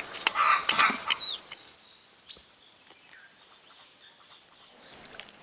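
Steady high-pitched insect chorus, which stops shortly before the end, with a few brief louder sounds over it in the first second.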